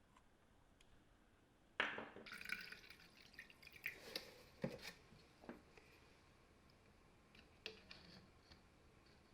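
A sharp click, then a run of light clicks and clinks of small hard objects being handled, with a few more near the end.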